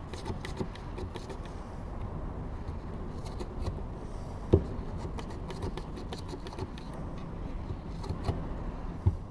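Small clicks, scrapes and handling noises as a blade cuts the pleated paper element of an aircraft oil filter free from its metal end cap, with one sharper knock about four and a half seconds in, over a low steady background rumble.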